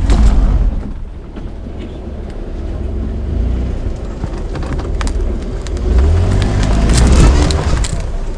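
Jeep Wrangler engine pulling at low speed on a rough off-road trail, swelling louder right at the start and again for a stretch near the end, with scattered sharp clicks over the rumble.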